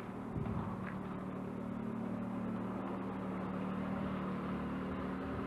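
Small Ford pickup's engine running as the vehicle moves off, a steady hum that picks up slightly less than half a second in.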